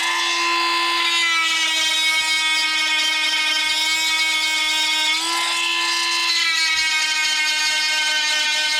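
Small 12-volt electric chainsaw sharpener starting up and running with a steady high whine as its grinding stone sharpens the chain's teeth. The pitch shifts briefly about five seconds in.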